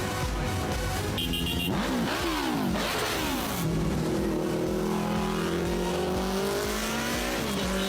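Sports car engine revving, its pitch dropping and climbing over a couple of seconds, then holding a steady note that slowly rises.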